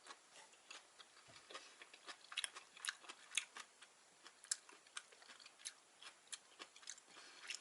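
Close-up chewing and mouth sounds of someone eating spicy vegetable gopchang: irregular short wet clicks and smacks, a few a second.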